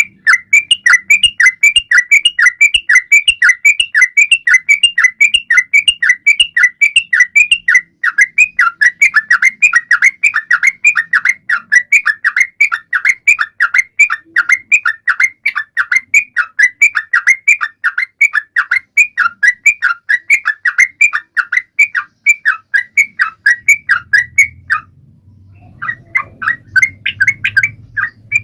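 Trucuan songbird calling in a fast, unbroken run of short, bright, repeated notes, about four or five a second. The run breaks off briefly near the end, then starts again.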